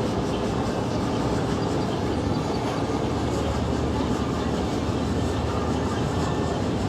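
Boat engine running at a steady pace, a low, even rumble with no breaks.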